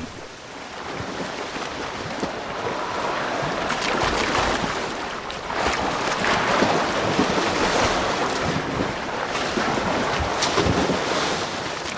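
Water splashing and churning as beluga whales thrash and roll in a shallow estuary. The sound comes in swelling surges.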